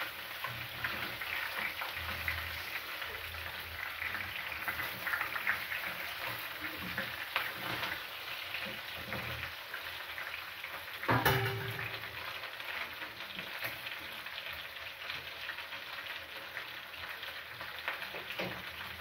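Pieces of fish, chicken, beef and potato sizzling steadily as they fry in oil in a frying pan over a gas flame. About eleven seconds in there is one short clatter with a brief ring.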